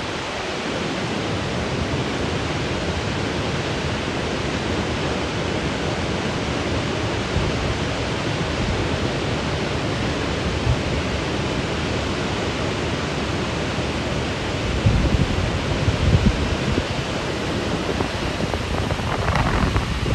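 Steady rush of a large waterfall, Burney Falls, pouring into its pool, with a few low wind bumps on the microphone about three-quarters of the way through.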